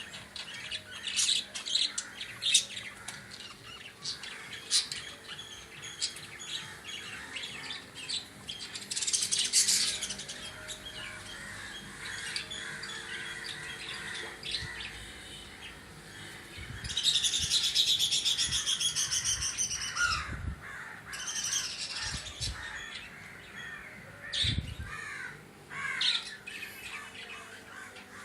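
Lovebirds chirping and squawking in sharp, high calls, with two longer stretches of dense, rapid chattering, one about a third of the way in and one past the middle. A few low thuds come in the later part.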